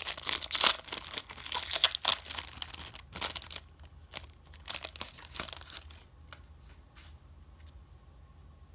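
A baseball-card pack wrapper being torn open and crinkled, with dense crackling for about three seconds, then a few lighter rustles and clicks that die away about six seconds in.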